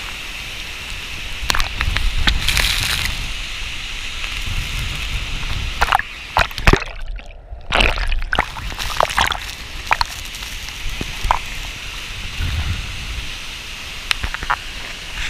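Water sloshing and splashing close by, with sharp splashes over a steady rush of falling water. The rush briefly drops away about seven seconds in.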